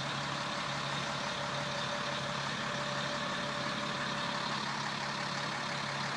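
Caterpillar 3116 inline-six turbo diesel of a GMC C6500 truck idling steadily at the exhaust, a smooth even drone.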